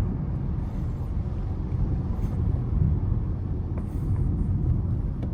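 Car driving on city streets: a steady low rumble of engine and road noise, with no distinct events standing out.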